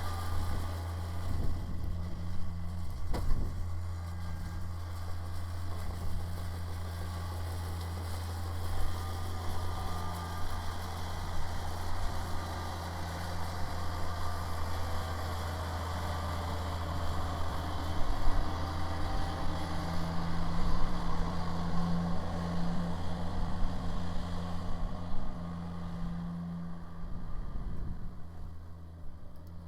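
Kubota BX sub-compact tractor's diesel engine running steadily while driving a rear-mounted snowblower, a constant low drone; the higher sounds fade over the last few seconds.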